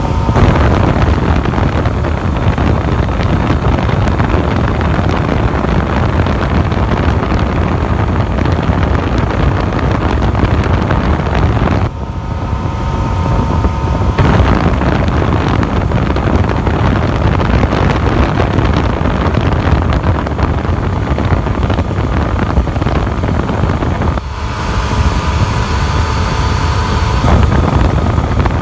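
Wind rushing over the microphone of a Yamaha FZ-09 motorcycle cruising at a steady highway speed, with the inline-three engine running underneath. Twice, about twelve seconds in and near the end, the wind eases for a few seconds and a steady engine hum comes through more clearly.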